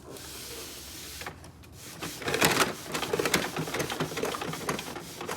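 A small plastic toy mechanism clicking and rattling rapidly for about three seconds, after a brief hiss at the start.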